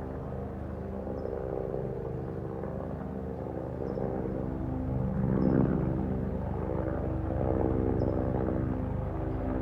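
Helicopter rotor and engine running steadily on its approach to land, growing louder about halfway through.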